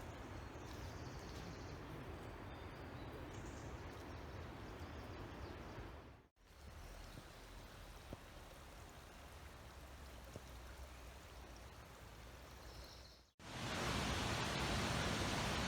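Outdoor ambience: a steady rushing noise that cuts off abruptly about six and about thirteen seconds in. It is louder after the second break.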